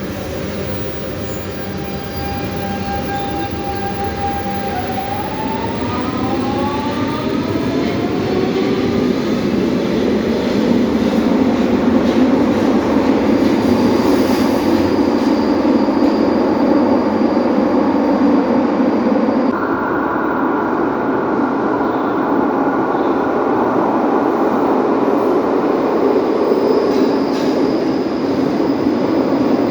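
Lisbon Metro train running on its electric motors: a whine climbs in pitch as it picks up speed, growing louder over the rumble of the wheels. It then runs steadily, with the whine jumping to a higher tone about two-thirds of the way through.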